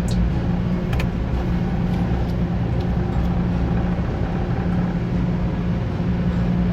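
Semi truck's diesel engine running steadily at low revs while the rig is maneuvered slowly, with one brief click about a second in.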